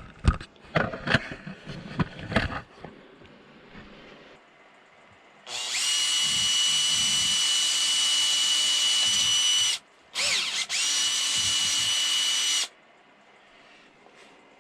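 Power drill whining at a steady high speed as it bores a small hole into the thin wall of a turned poplar lampshade to gauge its thickness. It runs for about four seconds, stops, then is triggered twice more in quick succession. A few knocks and clicks of handling come before it.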